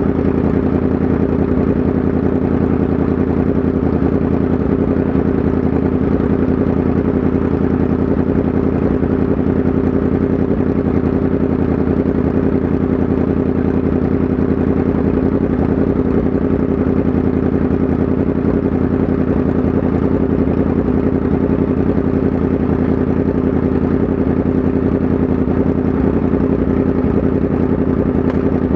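Yamaha MT-10 SP's crossplane inline-four engine running at a steady, unchanging pitch and level.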